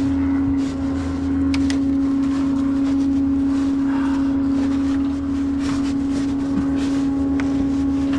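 Steady mechanical hum of a running service truck: one constant tone over a lower drone, unchanging throughout, with a few faint light clicks from work on the wheel.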